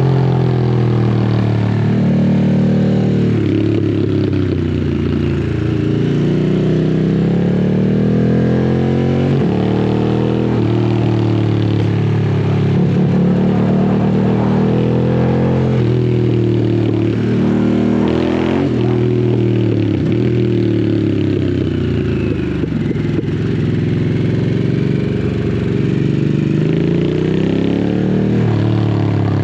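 Harley-Davidson Sportster S's Revolution Max 1250 V-twin running through a custom slip-on exhaust at low revs while riding. Its pitch climbs as it pulls, then drops abruptly about five times before climbing again.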